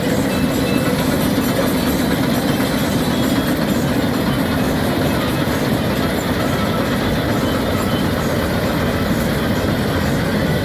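Swaraj combine harvester running steadily while harvesting maize: a loud, constant mechanical drone of engine and threshing machinery, with no change in pace.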